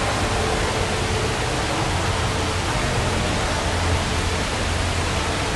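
Steady, even rushing noise with a low hum underneath, unbroken throughout.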